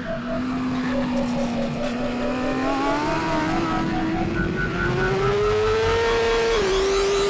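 BMW S1000RR superbike's inline-four engine under acceleration. Its pitch climbs steadily, then dips briefly with an upshift near the end.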